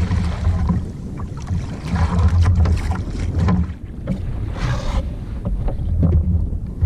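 Wind buffeting the microphone in gusts with a low rumble, over water splashing and lapping around a kayak.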